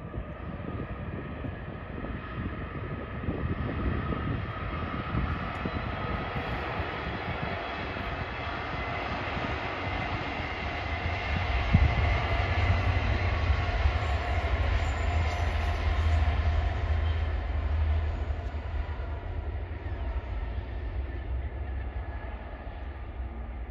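A train passing on the railway line. Its rumble and rail noise build up, are loudest from about halfway through with a sharp knock at the start of that loudest stretch, then ease off toward the end.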